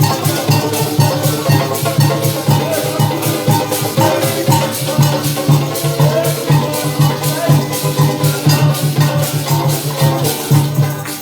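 Parang band playing an instrumental passage: a fast, even shaker rhythm over a steady bass line, with a melody on top.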